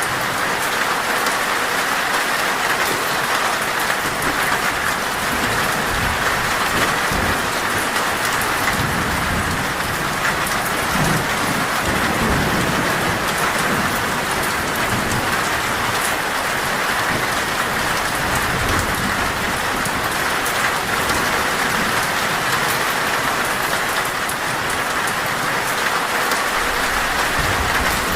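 Heavy rain drumming steadily on a metal roof, a dense hiss of drops. A low rumble of distant thunder swells under it through the middle.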